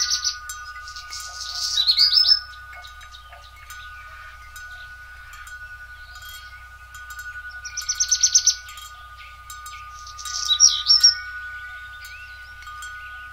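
Birds singing in four loud, bright trills of rapid repeated notes over a steady, high two-note ringing tone.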